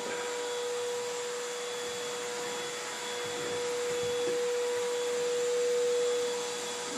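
Vacuum cleaner running steadily: a constant motor tone over the rush of air.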